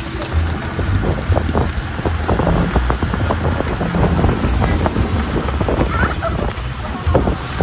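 Strong wind buffeting the microphone, a continuous rumbling and crackling rush of noise.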